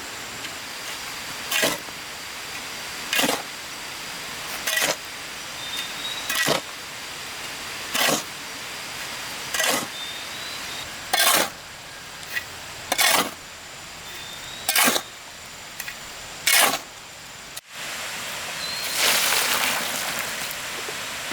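Steady manual work: short strikes or scrapes of a hand tool, one about every second and a half, ten in a row. Near the end a longer rushing burst follows a break.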